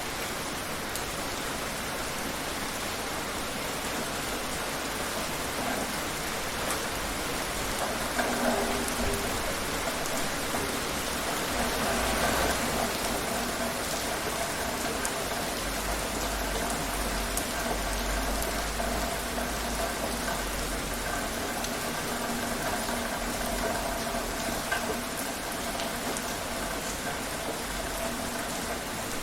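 Steady rain falling, a continuous even hiss of drops on surfaces, with a low rumble about halfway through.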